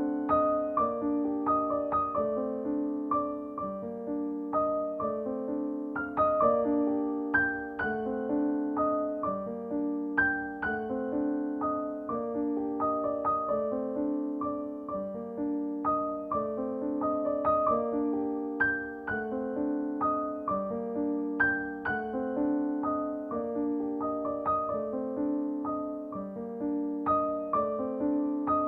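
Background piano music: a gentle, repeating pattern of evenly struck notes.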